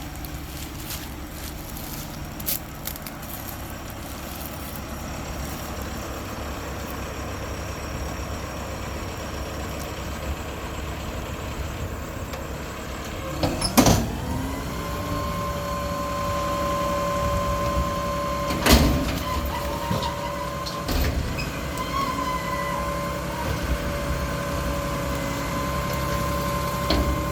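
Mack LR front-loader garbage truck with a Heil Half Pack body, its engine running steadily. About halfway through there is a loud metal clank, then a steady hydraulic whine holds on as the engine speeds up. A second loud bang comes a few seconds later, with smaller knocks and clanks around it.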